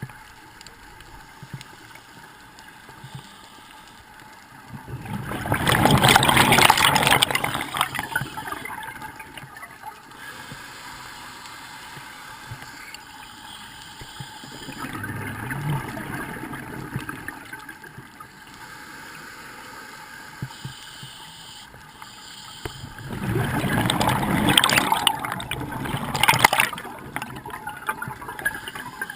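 Scuba diver's exhaled bubbles rushing out of a regulator underwater: two long loud rushes, one about a fifth of the way in and one near the end, with a softer one between, over a steady faint hiss.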